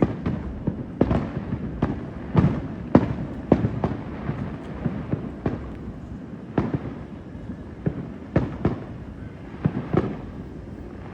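Aerial fireworks display: shell bursts going off in an irregular string, roughly one or two a second, each a sharp bang that trails off, over a steady low rumble.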